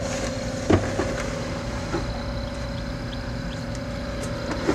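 Egg incubator's fan motor running with a steady hum, with a few light knocks from handling the incubator.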